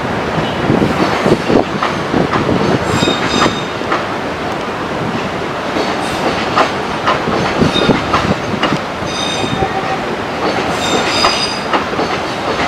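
Passenger train coaches rolling past, their wheels clattering and knocking on the rails, with a few short spells of high-pitched wheel squeal.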